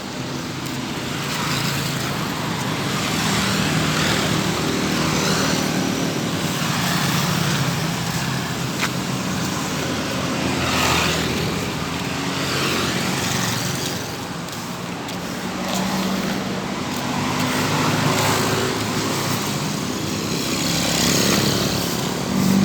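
Road traffic running steadily, with repeated swishes about every second or two that fit brooms sweeping rain-washed sand and gravel off the asphalt.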